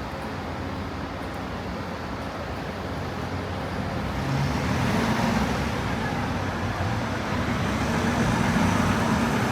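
Street traffic: a steady roadway rumble that swells from about four seconds in as a motor vehicle's engine draws close.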